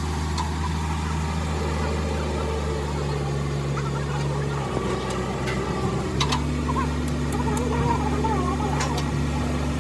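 An engine running steadily with a low, even hum. The hum falters briefly about five seconds in, then resumes, with a few sharp clicks.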